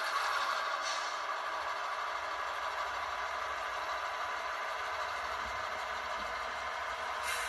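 Sound-equipped HO scale model diesel locomotive playing a steady diesel engine drone through its small onboard speaker, with a brief hiss near the end.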